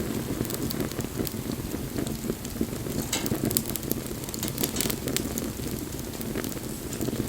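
Wood bonfire burning: a steady low rush of flames with frequent sharp crackles and pops, a few louder pops about three seconds in.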